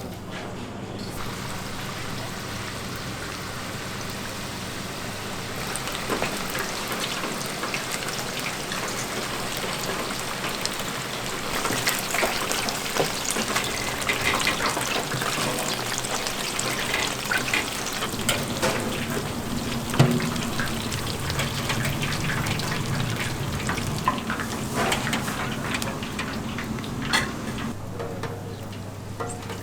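Food frying in hot oil: a steady crackling sizzle full of small pops, getting louder about six seconds in and again about twelve seconds in.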